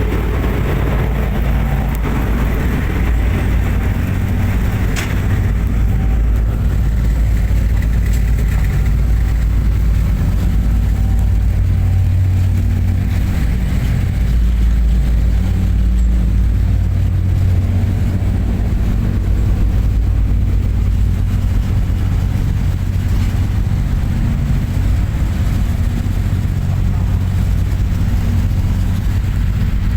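A high-speed boat's engines droning steadily while it cruises at speed, with water and hull noise over the top. There is one brief click about five seconds in.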